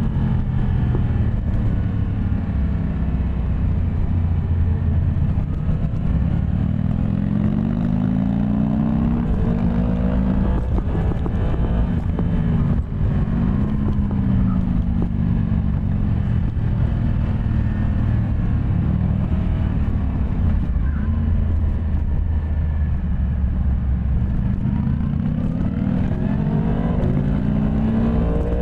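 Yamaha MT-10 SP's crossplane inline-four engine running under way, its revs climbing and dropping back several times as the bike accelerates and eases off.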